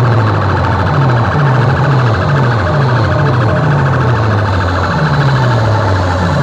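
Large DJ loudspeaker sound system playing at full volume: a deep bass tone that sweeps downward about twice a second, siren-like, over distorted loud sound.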